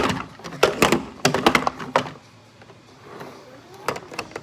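Hard toy trucks knocking and clattering as they are handled and bumped together, with several quick groups of knocks in the first two seconds and a few more near the end.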